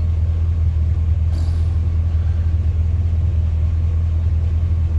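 Chevrolet 350 (5.7 L) small-block V8 running steadily with a constant low drone. The thermostat has its valve cut out, and the engine is holding below 200 degrees.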